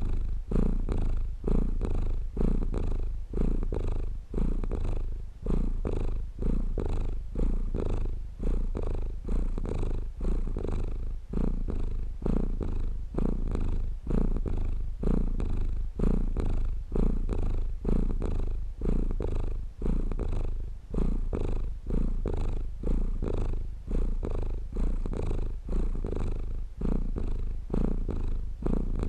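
Domestic cat purring steadily and close up, a low rumble that swells and fades in an even rhythm about every one and a half seconds.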